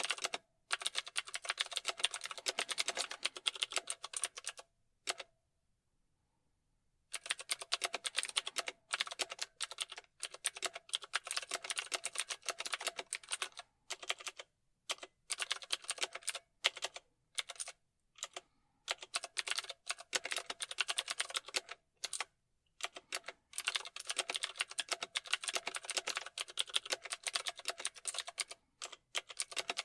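Typing on a computer keyboard: rapid runs of key clicks in bursts of a few seconds, broken by short pauses, the longest about five seconds in.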